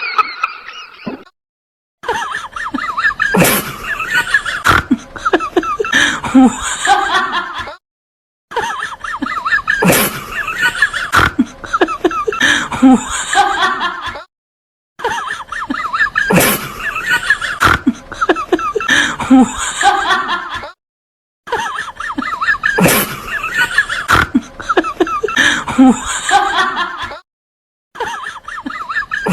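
A recorded laughter sound effect, the same laughing clip of about six seconds played four times over with short silent gaps between, and starting a fifth time near the end.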